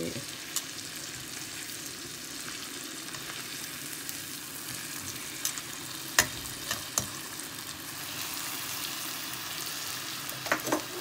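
Floured lamb liver frying in a little oil and butter in a pan: a steady sizzle as it browns, with a few sharp clicks, the loudest about six seconds in and more near the end.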